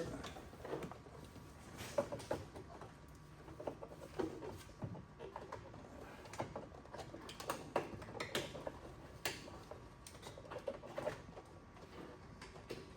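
Scattered small clicks, taps and rattles of hand tools and loose parts being worked behind a car's dashboard, coming in irregular bursts.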